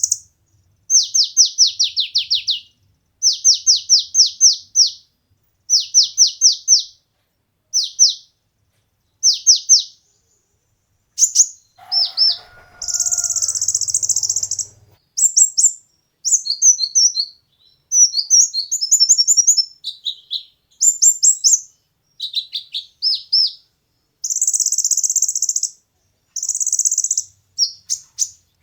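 Kolibri ninja sunbird song: groups of four to seven quick, high, down-slurred chirps, alternating with buzzy, rattling high trills. A brief lower sound with a faint hum comes about twelve seconds in.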